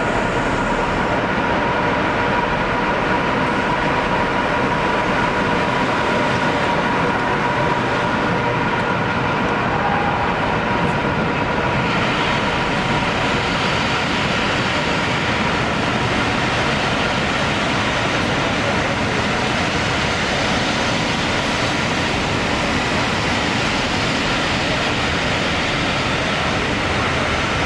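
Class 86 electric locomotive and its train of passenger coaches running through the station, with a steady rumble of wheels on the rails and a steady whine in the first half. From about twelve seconds in, the coaches pass close by and the sound turns brighter and hissier.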